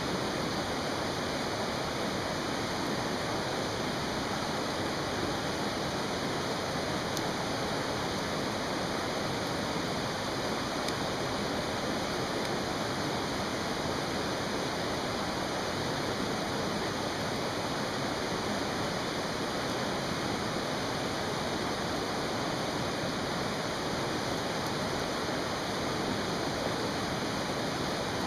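Mountain stream rushing steadily, with a couple of faint crackles from a campfire.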